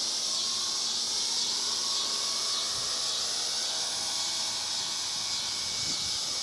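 Small electric RC helicopter in flight: a steady high whine from its motor over the hiss of the spinning rotor blades, with the pitch drifting slightly.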